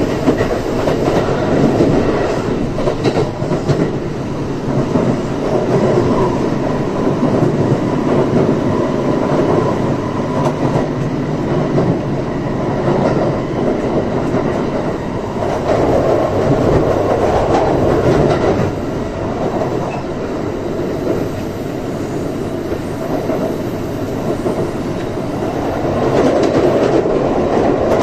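Kintetsu 3220 series electric train running between stations, heard from inside the car: a continuous rumble of wheels on rail with clickety-clack over the rail joints, swelling a little now and then.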